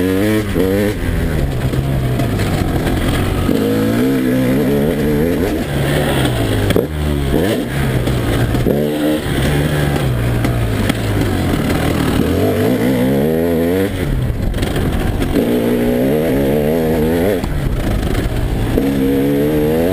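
2011 KTM EXC 300's two-stroke single-cylinder engine under load, revving up and falling back again and again as the throttle is worked, over a steady rush of wind noise.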